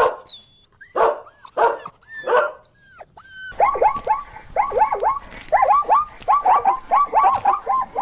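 A dog barking four times, each bark short, then a fast run of short, high yaps, several a second.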